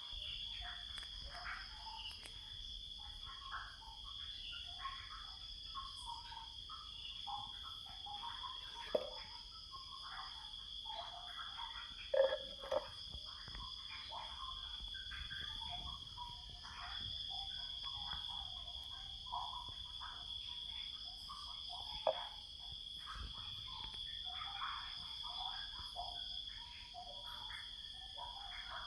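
A chorus of insects, crickets or similar, trilling in two unbroken high-pitched tones, with many short irregular calls lower in pitch scattered through it and a few sharp knocks.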